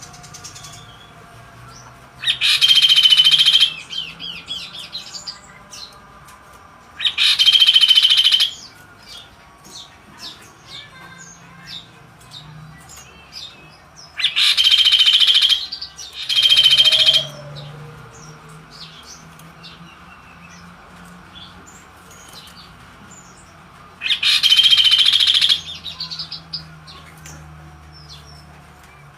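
Kaso-kaso songbird singing in five loud, harsh song bursts, each about a second and a half long, with softer chirps and twittering between them.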